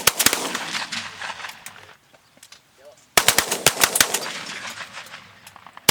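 Volleys of shotgun fire from several hunters shooting at once: a rapid string of overlapping shots in the first half-second, then a second quick volley of many shots about three seconds in, each trailing off in echo.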